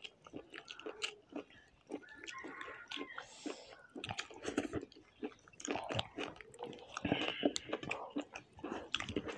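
Close eating sounds: chewing and mouth smacks of rice and chicken curry eaten by hand, with fingers mixing rice on steel plates, in an irregular patter of small clicks.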